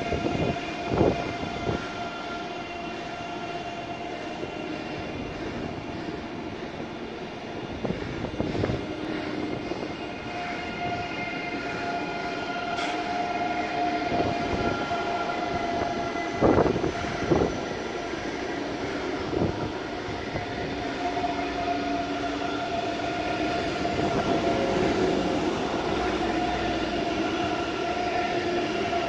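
ICE high-speed electric train passing slowly at close range: a steady whine of several tones over a rolling rumble, with a handful of sharp knocks from the wheels, two of them close together about two-thirds of the way through.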